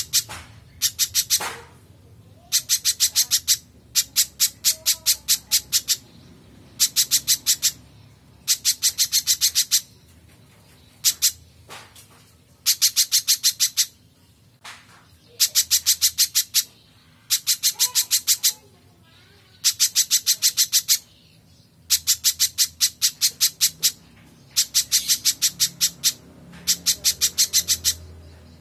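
Spiderhunter (pijantung) calling: repeated bursts of about a second of rapid, high, evenly spaced notes, roughly ten a second, coming every couple of seconds.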